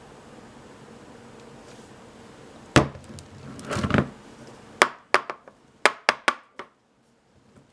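Hard objects knocked and set down on a work surface. One loud knock comes about three seconds in, then a short scraping sound, then a quick run of about seven sharper clicks and knocks. A faint steady hiss sits under the first part, and the sound cuts out abruptly near the end.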